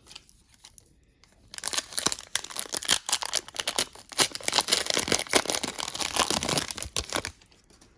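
Trading card pack wrapper being torn open and crinkled by hand, a dense crackling that starts about a second and a half in and stops shortly before the end.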